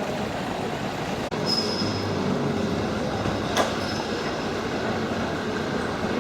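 Steady vehicle rumble with a thin high squeal heard twice, briefly, and a single sharp click midway.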